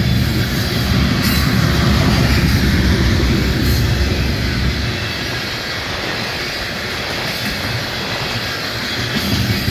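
Coal cars of a BNSF freight train rolling past, a steady rumble and rattle of steel wheels on rail; the deepest part of the rumble eases about five seconds in.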